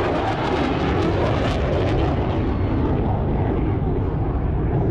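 Jet aircraft flying past: a loud, rushing engine noise whose high hiss thins out after about two seconds, leaving a lower rush.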